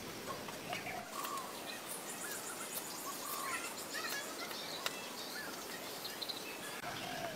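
Birds chirping, short scattered calls over a steady hiss of background noise, with a few faint clicks.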